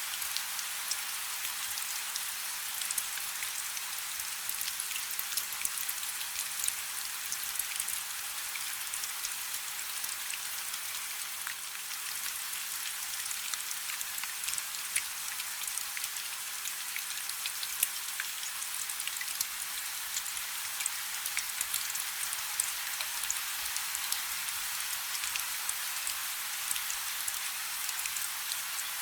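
Light rain falling steadily: an even hiss dotted with the close patter of individual drops.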